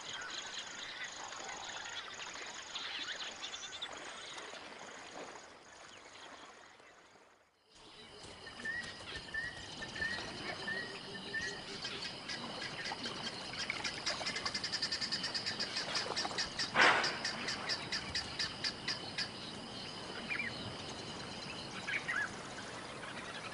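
Bush ambience of birds calling and insects trilling, with a run of about five short repeated bird calls around ten seconds in. The sound drops out briefly near seven seconds, and a short louder sound stands out near seventeen seconds.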